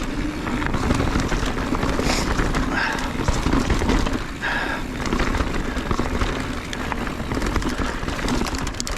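Mountain bike descending a rocky trail: wind rumbling on the camera microphone, with a continual clatter of tyres, chain and frame over rocks.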